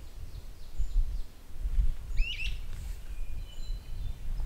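Birds chirping and calling: scattered short high notes, with a quick bending chirp about two seconds in, the loudest call, and a few held whistled notes near the end. An uneven low rumble runs underneath.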